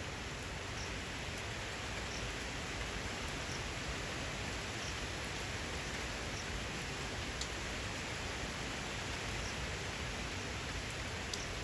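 Steady rain in wind, an even hiss with a few sharp drips now and then.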